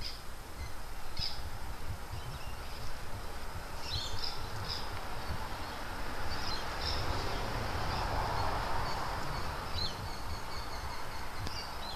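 Birds chirping in short, high calls every second or two over a low rumble, with a soft hiss that swells and fades about two-thirds of the way through.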